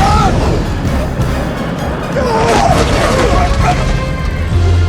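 Action film soundtrack: dramatic music over a heavy low rumble, with booms and crashing impacts.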